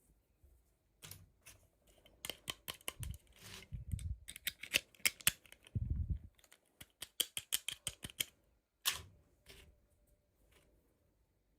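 Toy packaging being handled and opened: a quick run of small plastic clicks and taps, with a few soft thumps partway through.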